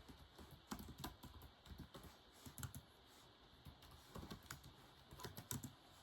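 Typing on a keyboard: faint, irregular runs of key clicks, with a short pause about halfway through.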